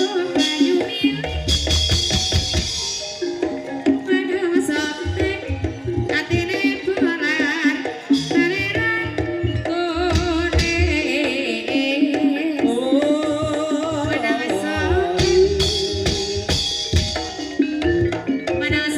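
Live Banyumasan gamelan music for an ebeg dance: hand-played drums with deep, repeated strokes under a steady pitched melody from tuned percussion, with a wavering ornamented lead line above.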